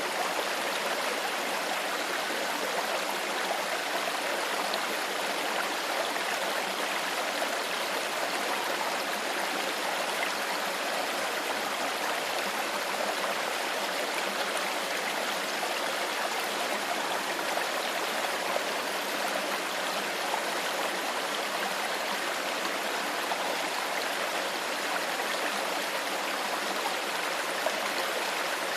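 Clear stream water flowing steadily over rocks, a continuous even rush with trickling and gurgling.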